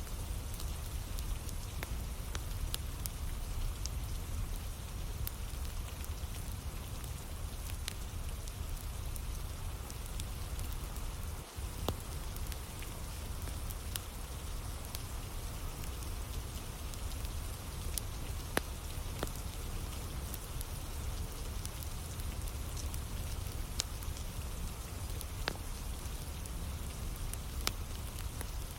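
Steady rain, with the sharp scattered crackle and pop of burning firewood. There is a momentary dropout in the sound a little before halfway.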